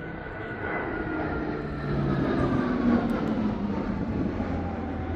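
Aircraft engine flying past, a steady rush with whining tones that fall in pitch as it goes by, loudest about two to three seconds in.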